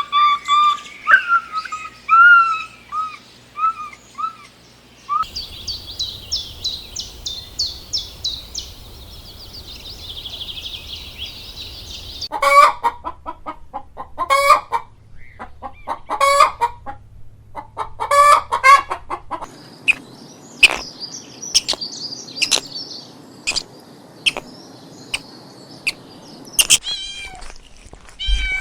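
A run of spliced bird and poultry calls: small birds chirping, then chickens clucking in short bursts, then more high twittering, with the sound changing abruptly at each cut.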